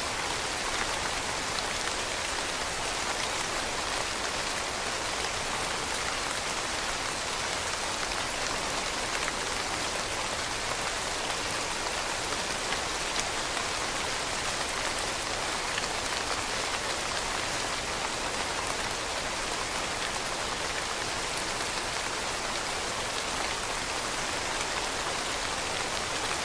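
Steady rain falling on leaves: an even hiss with faint scattered drop ticks.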